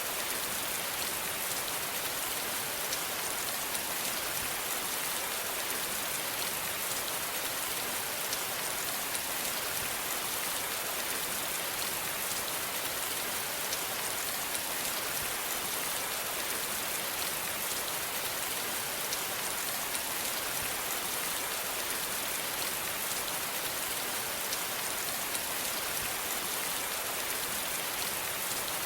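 Steady rain falling on a surface, a constant even hiss with fine drop patter and no thunder.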